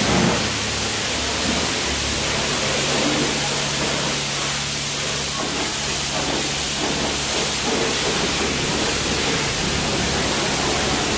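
Automatic car wash spraying water onto a truck, heard from inside the cabin: a steady hiss with a low hum underneath.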